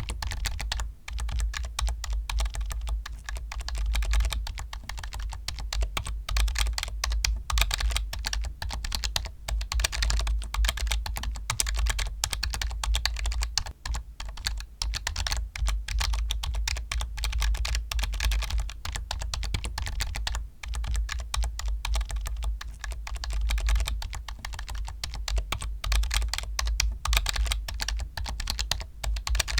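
Fast, continuous typing on a computer keyboard, a dense run of key clicks and thocks with no pauses longer than a moment.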